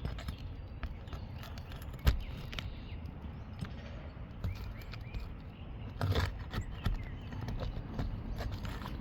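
Asphalt 3-tab roof shingles being lifted and handled: scattered sharp knocks and crinkling rustles, the loudest knock about two seconds in and a burst of rustling about six seconds in, over a steady low rumble.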